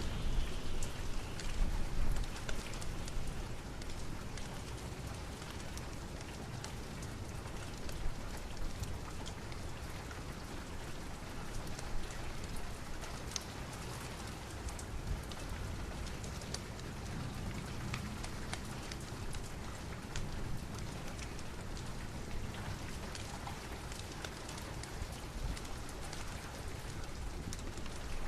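Steady rain falling on a surface, with many small sharp drop ticks throughout and a low rumble that eases off about two seconds in.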